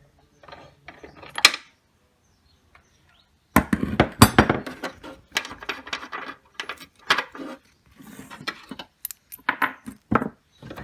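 Metal hand tools clinking and knocking on a window air conditioner's compressor mounting nuts and bolts as they are being undone. The clinks come irregularly, thickest about four seconds in.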